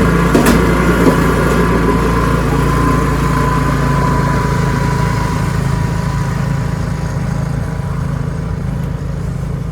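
Ariens 624E snowblower engine running steadily, with a brief knock about half a second in, growing slightly quieter toward the end.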